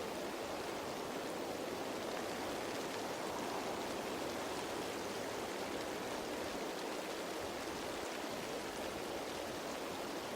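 Steady rain falling on leaves: an even, unbroken patter.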